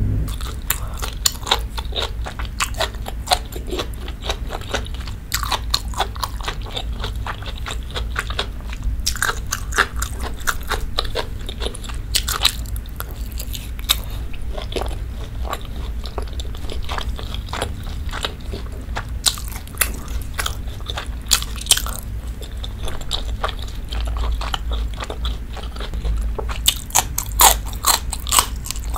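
Close-miked chewing of beef steak and grilled vegetables: a dense run of wet mouth clicks and smacks, thicker in clusters near the middle and the end, over a steady low rumble.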